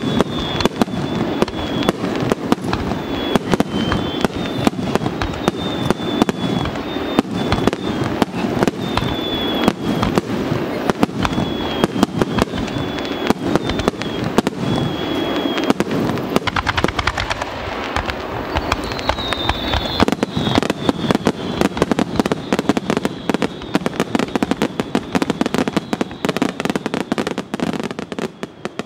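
Aerial fireworks shells bursting in a dense, continuous barrage of rapid bangs and crackling, many at once as in a starmine volley. The barrage thins out near the end.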